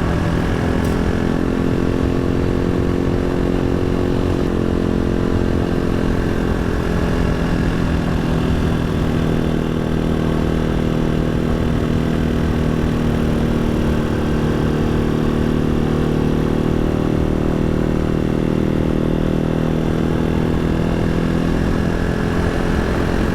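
Janus Halcyon 250's single-cylinder engine running steadily as the motorcycle rides along. The pitch eases a little in the middle and picks up again toward the end, over low wind and road rumble.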